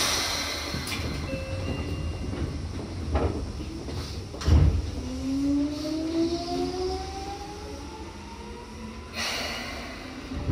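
Seibu 2000 series electric train starting off from a station, heard from inside the carriage: a couple of dull thumps, then from about halfway a rising whine from the traction motors as the train accelerates.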